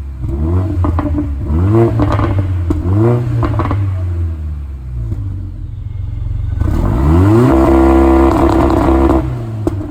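2015 Mercedes A45 AMG's turbocharged 2.0-litre four-cylinder revved through its AMG performance exhaust: three quick blips with crackles and pops from the exhaust, then a longer rev held high for a couple of seconds before dropping back.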